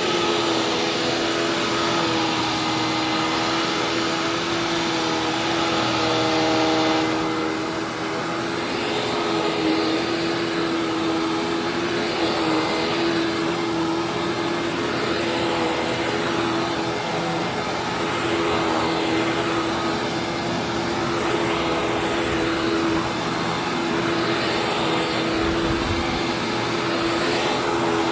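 Hoover WindTunnel WidePath upright vacuum cleaner running steadily with a motor whine, its brush roll picking up crushed, powdery parrot food from a rug. The tone shifts slightly about seven seconds in.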